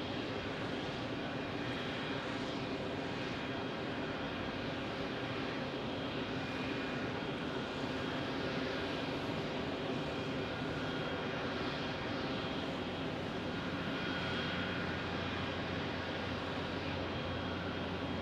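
Jet airliner engines running steadily, a continuous rushing noise with a faint high whine. A low rumble grows in the last few seconds.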